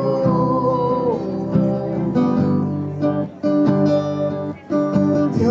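Worship music: an acoustic guitar strumming chords, with a sung note held through the first second or so, and two brief breaks in the strumming near the middle.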